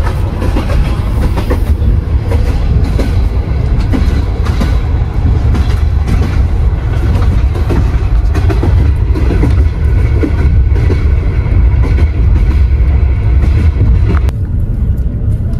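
Passenger train running along the line, heard from inside a sleeper compartment: a steady low rumble with wheels knocking and clicking over the rails and the carriage rattling. Near the end the higher rattle drops away and the rumble goes on.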